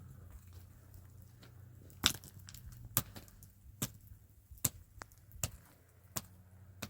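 A series of seven sharp knocks, about one every 0.8 seconds, starting about two seconds in; the first is the loudest.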